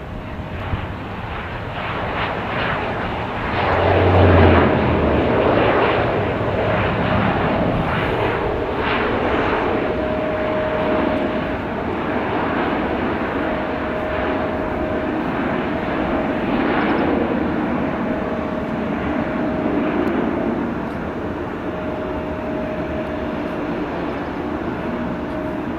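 Jet airliner's engines passing close by, loudest about four seconds in with the pitch falling as it goes past, then a sustained engine rumble that eases a little near the end.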